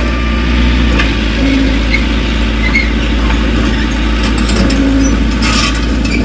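Heavy diesel earthmoving machine running steadily with a deep rumble, with a few short squeaks from its metal parts.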